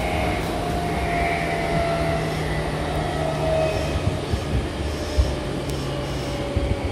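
Running sound heard inside a Meitetsu 5000 series electric train car: a steady low motor and wheel hum, with a faint tone whose pitch eases down slightly, and a few short knocks as the wheels pass over rail joints.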